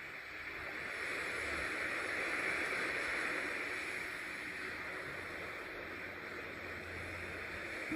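Blizzard wind: a steady rushing noise that swells a little about two to three seconds in, then eases off.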